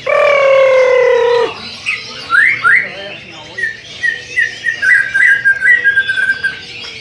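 White-rumped shama (murai batu) singing. It opens with a long drawn note of about a second and a half, then gives a few quick rising whistles and a run of short high notes.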